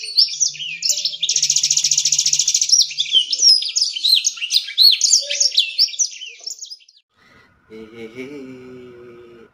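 A songbird singing loudly: a fast, even trill followed by a run of varied whistled notes that sweep up and down. The song stops about seven seconds in, and near the end a man's voice holds a drawn-out 'yeee'.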